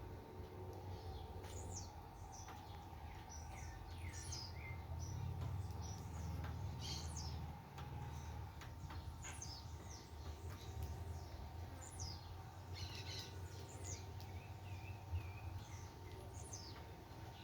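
Several small wild birds chirping and calling at a feeding tray: many short, quick notes, often falling in pitch, from more than one bird at once, over a low steady rumble.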